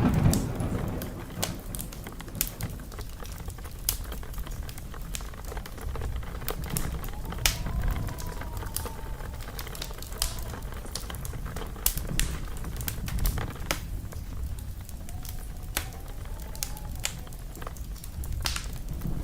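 Fireplace fire crackling and popping, with irregular sharp snaps over a steady low rumble of the flames. A faint whistling tone rises and falls twice, around the middle and again near the end.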